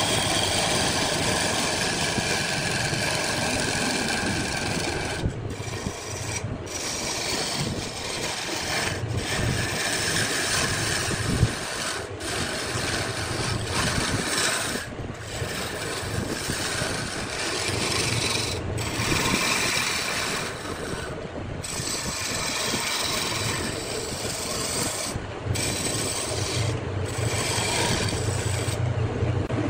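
Wood lathe running while the spinning wood is worked: a continuous rasping hiss over a low motor hum, broken off briefly several times.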